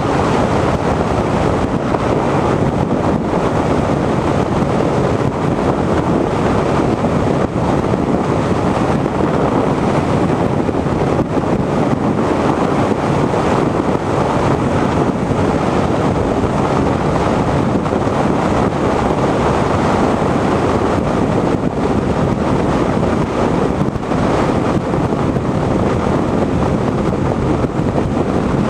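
Steady wind noise on the microphone of a motorcycle riding at road speed, with the motorcycle's running mixed in beneath it.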